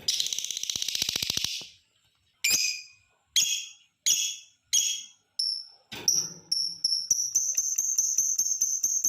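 Lovebird calling: first a quick rattling trill, then a few sharp separate calls less than a second apart. About two-thirds of the way in comes a long, fast run of short high chirps that speeds up, the lovebird's long chatter (ngekek panjang).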